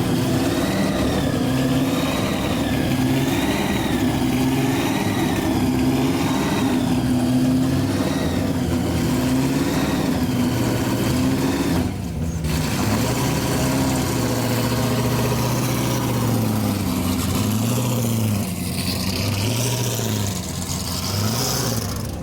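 Car engines revving up and down at a drift event, the pitch swinging up and down about once a second as the throttle is worked, with a short break about twelve seconds in.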